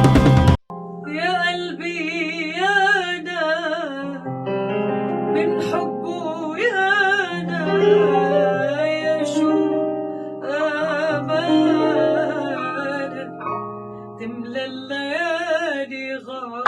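A woman singing an Arabic melody with wavering, melismatic ornaments over held keyboard chords and a sustained bass line. A louder full chord cuts off abruptly just under a second in, before the voice enters.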